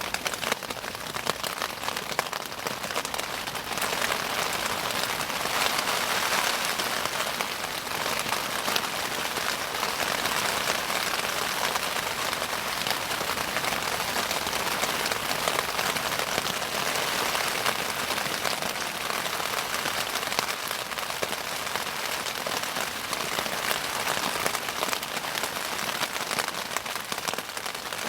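Wood bonfire crackling steadily, a dense run of small pops and snaps over a hiss.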